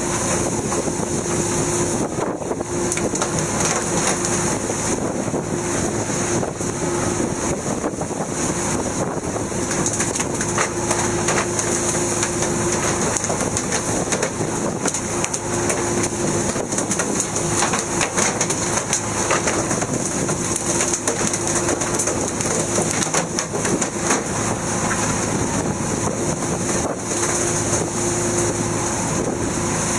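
Fishing boat's engine running steadily under wind and sea noise, with a steady hum that drops out and comes back every few seconds.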